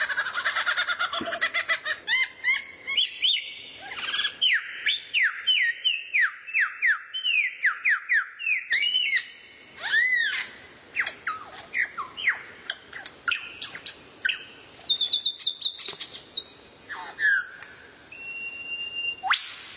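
Songbird song: a fast rattling trill opens into a long run of quick, down-slurred whistled notes and arched calls, with a steady held whistle near the end.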